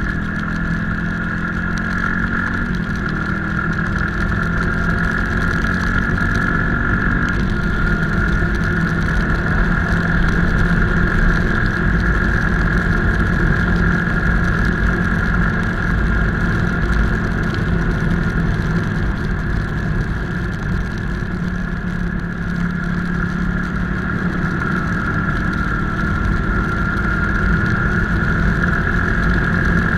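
Motorcycle engine running steadily while riding, with small shifts in pitch, over a constant low rumble of wind and road noise.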